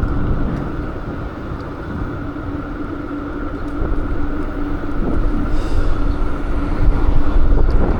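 Road and traffic noise with wind while riding a bike along a city street: a dense rumble with a steady hum, growing louder in the second half.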